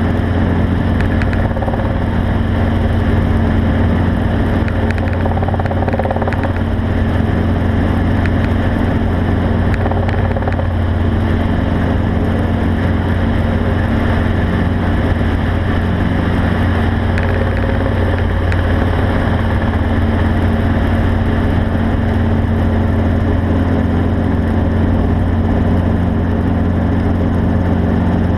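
A vehicle engine running steadily: a constant low drone that holds the same pitch throughout, with no revving.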